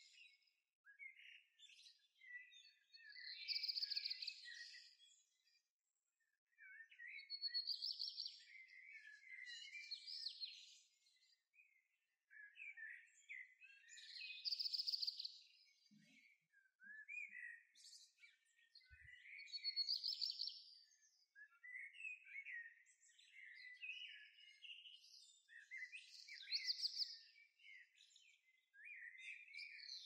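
Songbirds singing: loud chirping song phrases come every four to five seconds, with softer chirps and twitters in between.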